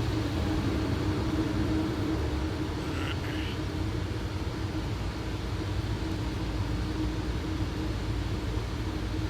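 Boeing 737 flight deck on approach: a steady rumble of airflow and engines with a constant hum, as the landing gear extends after being selected down.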